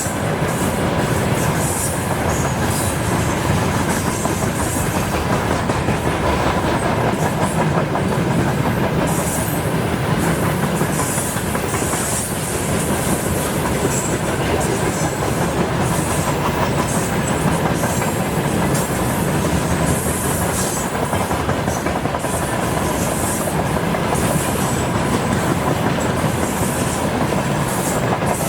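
Freight train rolling past at speed, a steady loud rumble of wagons with wheels clattering over the rails and brief high squeals and hisses from the wheels.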